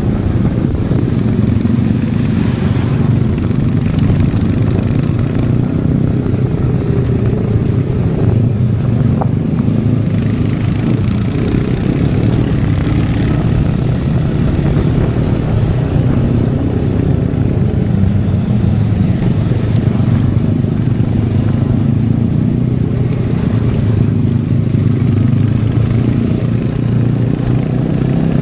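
Royal Enfield Hunter 350's single-cylinder engine and exhaust running steadily as the motorcycle is ridden, the note holding a fairly even pitch with small rises and falls.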